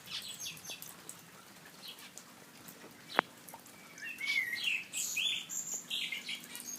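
Small pet birds chirping and tweeting, sparse at first and then busier and louder through the second half. A single sharp click about three seconds in.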